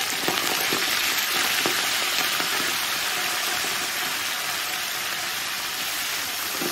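Fresh fenugreek (methi) leaves sizzling in hot oil in a large metal pot, a steady loud hiss that eases slightly over the seconds, with a spatula scraping and tossing the leaves early on the pot's bottom.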